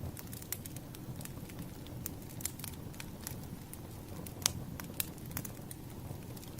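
Firewood burning, crackling with irregular sharp pops over a low steady rumble; the loudest pop comes about four and a half seconds in.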